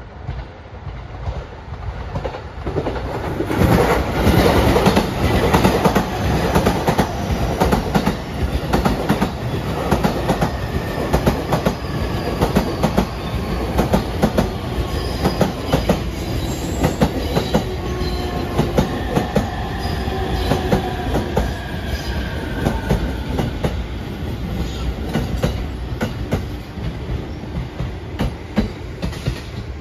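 JR Utsunomiya Line suburban electric train rolling into Kuki Station over rail joints, its wheels clicking through the joints in a long clickety-clack run. A slowly falling whine runs along with it as the train slows. The sound builds about two seconds in, is loudest as the front cars pass, and keeps going as the rest of the train rolls by.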